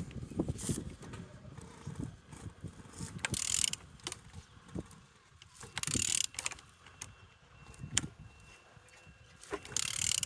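Removed car engine being turned over by hand with a ratchet on the crankshaft: ratchet clicks and mechanical knocks, with three short hissing swishes. The engine turns freely, as a check that it is not seized.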